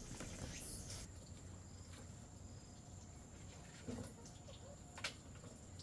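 Faint ambience with a steady, high-pitched insect drone starting about a second in, soft rustling at the start and a sharp click near the end.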